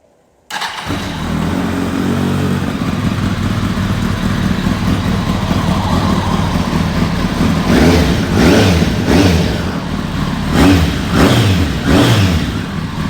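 2006 Kawasaki ZX10R inline-four sport bike engine through a single-exit Dominator aftermarket exhaust, idling steadily, then revved in a series of quick throttle blips over the last five seconds or so.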